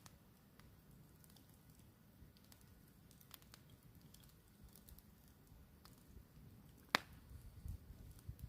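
Campfire crackling faintly, with scattered small pops and one sharp, louder snap about seven seconds in.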